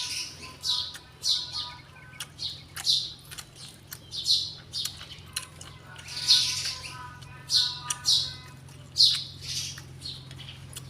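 A pet bird calling in short harsh chirps and squawks, repeated irregularly about once a second, with sharp clicks in between and a steady low hum underneath.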